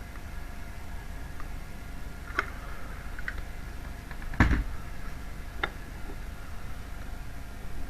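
A few light clicks and knocks with one heavier thump about four and a half seconds in, as decorative gypsum tiles are handled and set in place with adhesive. A steady low hum runs underneath.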